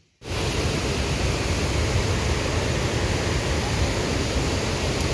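Steady, loud rush of water noise that cuts in abruptly a moment in.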